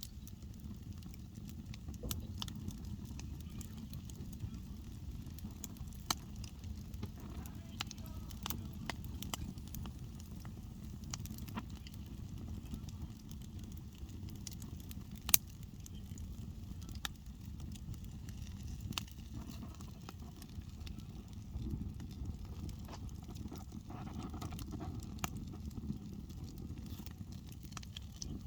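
Wood campfire crackling and popping, with irregular sharp snaps over a steady low rumble; one louder pop comes about halfway through.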